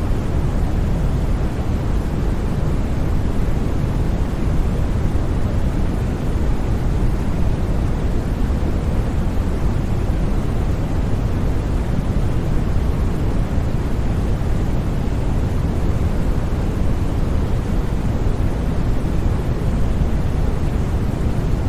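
Steady, unchanging white noise: a deep rushing hiss that is strongest in the low range, with no breaks or sudden sounds.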